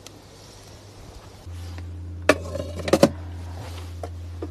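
Metal cookware clanking twice around the middle, a pot or lid being set down with a short ring, over a steady low electrical hum that switches on about a second and a half in.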